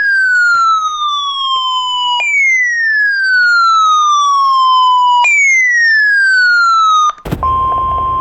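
Electronic siren sweeps, three of them about three seconds each, each gliding down from a high to a lower pitch. About seven seconds in, a click cuts them off and a steady weather radio warning alarm tone starts over radio static.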